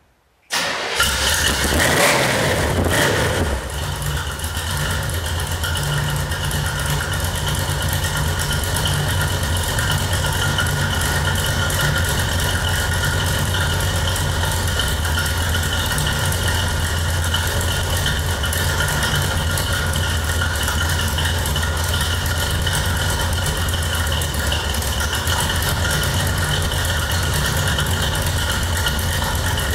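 A 1972 pro street pickup truck's engine comes in suddenly about a second in after a brief silence. It revs briefly, then settles into a steady idle with a low rumble.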